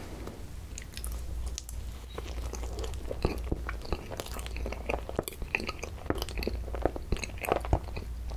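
Close-miked chewing of a mouthful of Korean cream bread, with many short mouth clicks that come thicker about halfway through.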